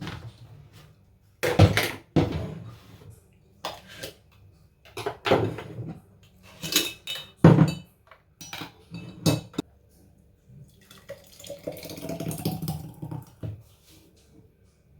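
Dishes and utensils clattering in a kitchen: a string of separate knocks and clinks, the loudest in the first half. About eleven seconds in comes a couple of seconds of running water with a rising tone in it, followed by a few more clinks.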